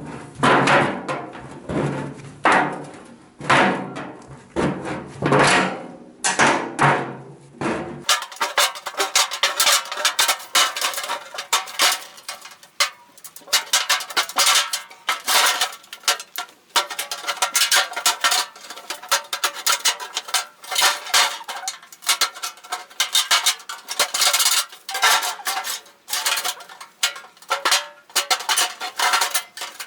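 About 8 s of background music, then rapid, irregular metallic clanking and tapping on the thin sheet metal of an 18-litre square tin can being worked into a stove.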